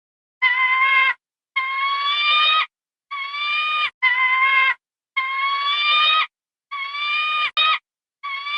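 Falcon calling: a series of about seven harsh, drawn-out screaming calls, each half a second to a second long, separated by short pauses.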